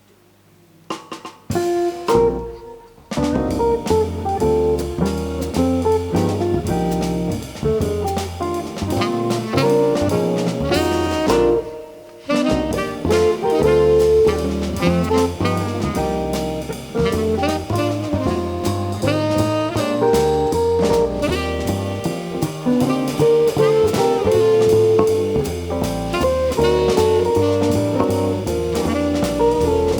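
Live jazz band starting a tune after a second and a half of near-quiet, playing on with a steady rhythm; the music drops away briefly about twelve seconds in.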